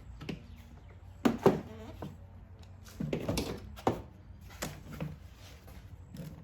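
Several sharp plastic knocks and clicks, the loudest pair about a second and a half in, as the engine air filter housing parts are handled and pushed back into place.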